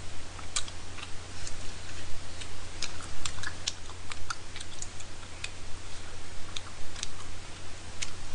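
Close-miked chewing of chewy, saucy rice cakes (tteokbokki): irregular wet mouth clicks and lip smacks over a steady low hum.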